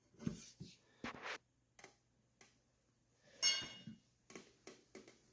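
Steel tire spoons scraping and knocking against the wheel rim as the stiff bead of a knobby ATV tire is pried over the rim edge by hand. There are scattered short knocks, with one ringing metallic clink about three and a half seconds in.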